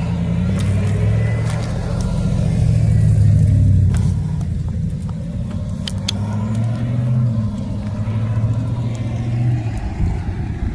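Low, steady rumble of a car engine running close by, its pitch wavering a little, with a few sharp clicks.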